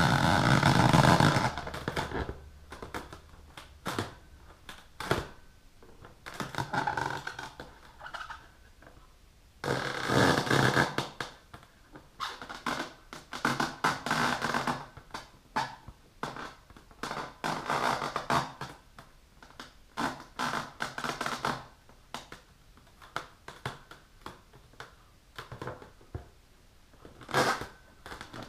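Long fingernails scratching and rubbing on an inflated rubber balloon, in irregular bouts with scattered clicks between, loudest in the first second or so.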